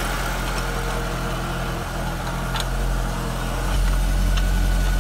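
Corvette engine idling on a lift, heard from underneath near the torque tube: a steady low hum with no whir or rattle from the torque tube, which is running quiet. The hum grows louder about three and a half seconds in, with a couple of faint ticks.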